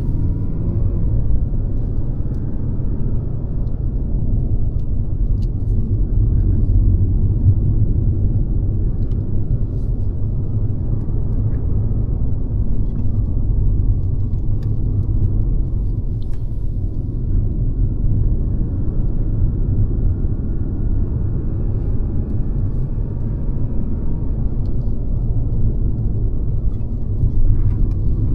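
Mercedes-Benz C-Class (W206) on the move: a steady low rumble of engine and tyre-on-road noise, with a few faint ticks.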